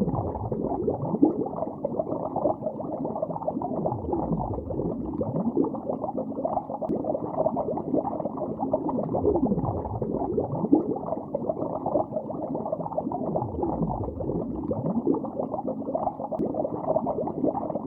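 Bubbles streaming underwater in a lake, a continuous dense bubbling with frequent swooping gurgles. The sound is muffled, with no high end at all.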